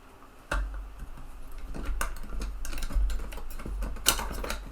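Light clicks and taps of a 3.5-inch floppy drive's small metal and plastic mechanism parts being handled and taken apart, over a low handling rumble. Sharper clicks come about half a second, two seconds and four seconds in.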